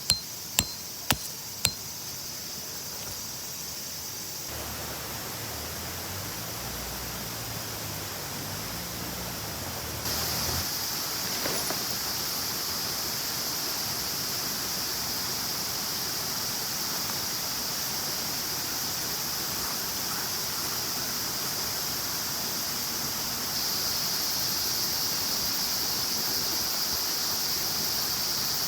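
Steady rushing of flowing water, like a stream, with a strong hiss, stepping up in level a few times. Three sharp clinks in the first two seconds.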